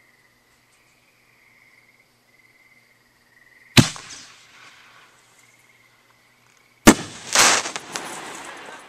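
Consumer fireworks going off: a sharp bang, then about three seconds later a second bang followed quickly by another burst and a fading crackle. Crickets chirp steadily until the first bang.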